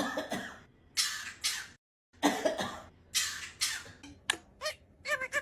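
A parrot making raspy, cough-like sounds in several short bursts, then a quick run of short wavering whistled calls near the end.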